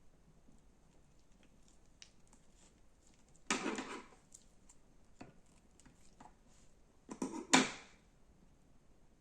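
Slime being worked by hand: scattered small sticky clicks, with two louder noisy bursts, one about three and a half seconds in and a double one near seven seconds.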